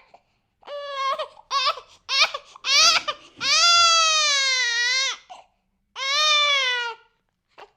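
A baby crying: a run of short, choppy cries, then one long wail of about two seconds, then after a pause another wail of about a second.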